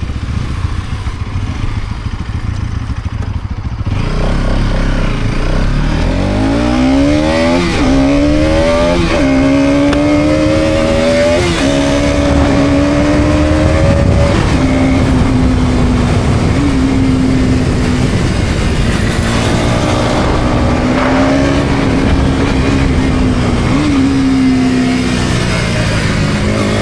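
Bajaj Pulsar NS200 single-cylinder engine idling low, then pulling away about four seconds in. It rises in pitch and drops back at each upshift, about four times, then settles into a steady cruise.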